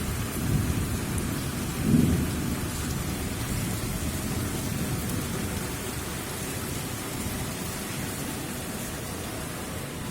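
Steady rain falling, with a low rumble of thunder swelling about two seconds in.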